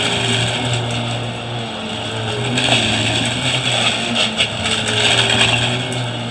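Vacuum cleaner running steadily with a constant low hum, its hiss swelling now and then.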